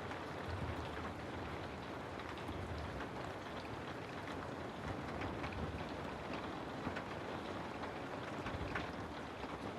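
Steady rain: an even hiss with scattered drops tapping, over a faint low rumble.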